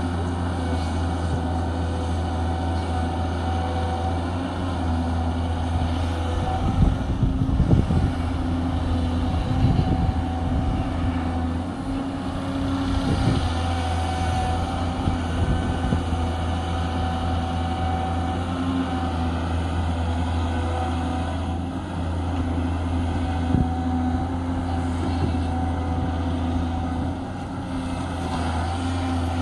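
Cat 320 hydraulic excavator's diesel engine running steadily under load, with a stretch of heavier low rumbling and knocks about a quarter of the way in.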